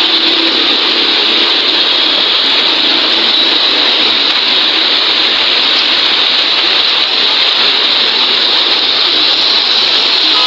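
Heavy rain falling: a loud, steady, even hiss.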